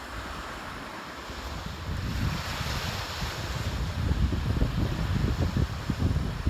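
Sea waves washing on the shore with wind buffeting the microphone, the gusts growing heavier in the second half.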